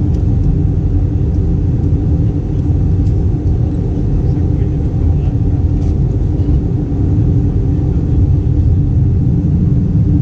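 Steady low cabin drone of an Airbus A320 in flight: engine and airflow rumble with a few steady hum tones, unchanging throughout.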